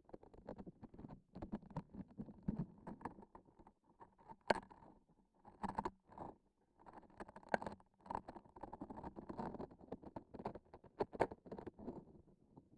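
Fingers pressing and pulling at tacky transparent sticky objects, giving dense, irregular crackling and sticky clicks with a few louder snaps.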